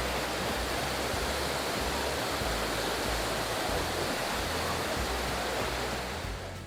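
Waterfall rushing, a steady, dense sound of falling water that eases slightly near the end.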